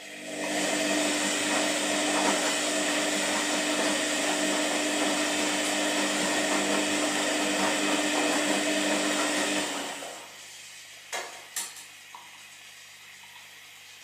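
Washing machine running: a loud, steady motor-and-water whoosh with a constant hum that starts just after the opening and dies away about ten seconds in, followed by two sharp clicks.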